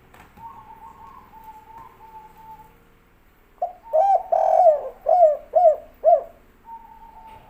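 Spotted dove (tekukur) singing one cooing phrase about halfway through: a short coo, a longer rolling coo, then three short 'kuk' notes about half a second apart, the 'kuk 3' ending of its song.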